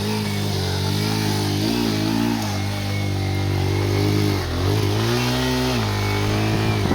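Honda CB160F's single-cylinder four-stroke engine running under way, its pitch rising and falling with the throttle, dropping and climbing again a few times.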